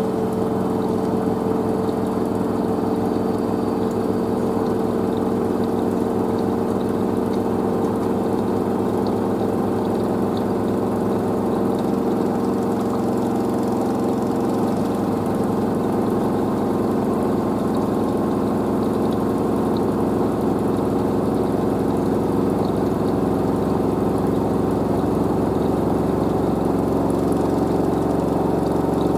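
LG DirectDrive F1496AD washer dryer spinning its drum, a steady motor and drum hum with tones that shift slightly about halfway through as the spin builds toward full speed.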